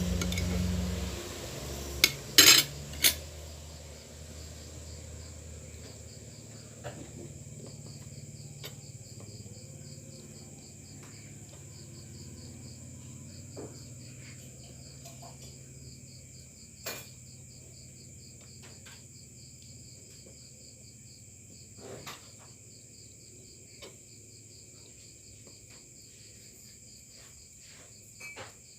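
Cutlery clinking against a plate while eating: a few sharp clinks about two to three seconds in, then scattered lighter clicks. Underneath, insects chirp steadily in a fast, even rhythm.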